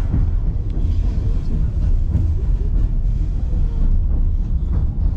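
Passenger train car rolling along the track, heard from on board: a steady low rumble.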